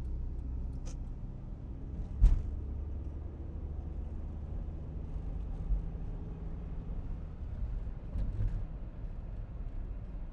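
Steady low rumble of a car in motion, with a sharp knock about two seconds in.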